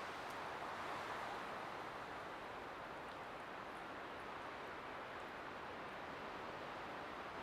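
Light wind blowing steadily, a soft hiss that swells slightly about a second in.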